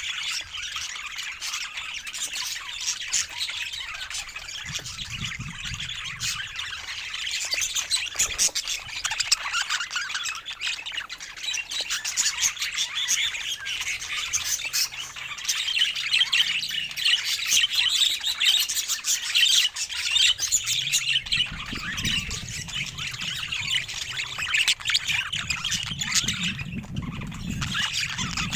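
Several pet budgerigars chattering, with a dense, continuous run of quick chirps, warbles and squawks overlapping one another.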